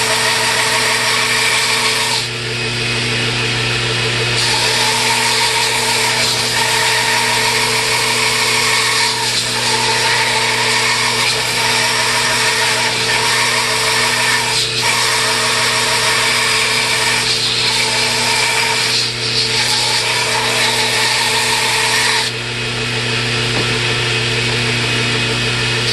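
Electric power tool running steadily while a hickory handle is shaped against it, the hiss of the wood being cut away over the motor's hum. The hiss drops out briefly about two seconds in and again near the end, when the work comes off and the motor runs on its own.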